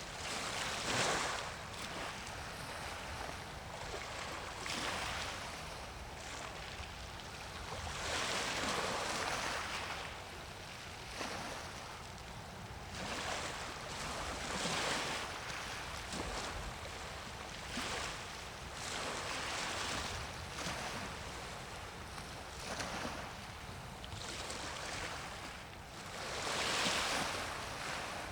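Small waves washing in at the water's edge, a swell of surf noise every few seconds that rises and falls away.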